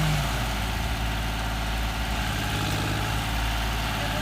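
Diesel engine running steadily at low revs, a low pulsing drone.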